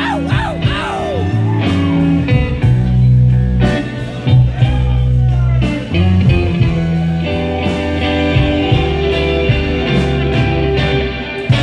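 Live blues-rock band playing an instrumental passage: electric guitar with bending notes over bass and drums.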